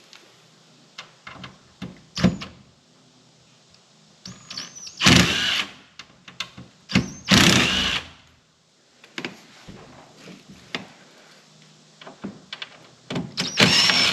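Cordless impact driver backing screws out of an RV rooftop air conditioner shroud: three short bursts of about a second each, each starting with a rising motor whine. Small knocks and clicks of handling come between the bursts.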